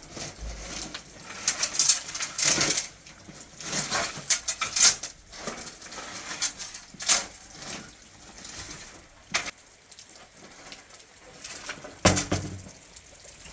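Irregular clinks and knocks of small hard objects, busiest in the first few seconds, with a louder knock near the end.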